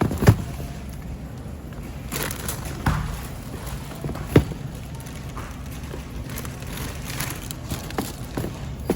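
A few sharp knocks and thuds, with the loudest about a third of a second in and two more near three and four and a half seconds, over a steady low rumble: items being handled while shopping.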